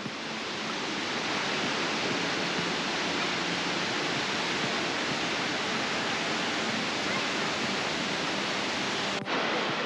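Rushing water of the Ouzoud waterfalls: a steady, even wash of falling-water noise, broken by a brief dip and a cut a little before the end.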